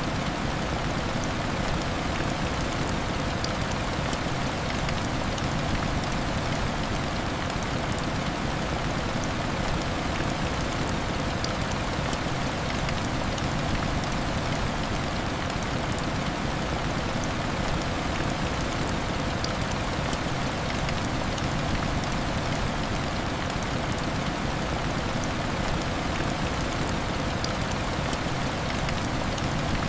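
Heavy rain falling steadily, an even hiss with scattered light ticks of drops.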